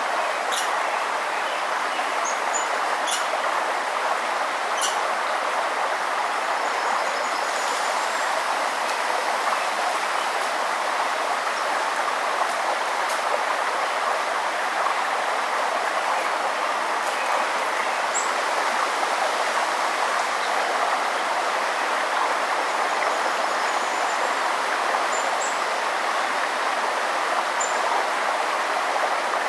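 A river or stream rushing steadily, with a few faint, short, high bird chirps now and then above the water.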